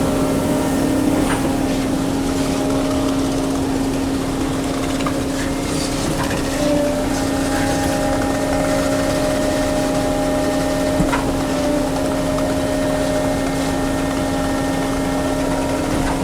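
Engine of the concrete-pouring equipment running steadily at constant speed as a loud, even hum, with a few faint knocks.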